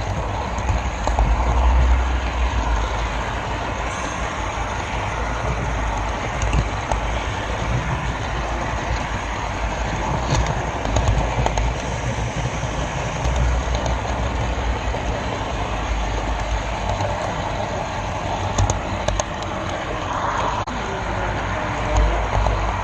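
Model railroad camera car rolling along the track: a steady rumble from the wheels on the rails, with a few scattered clicks.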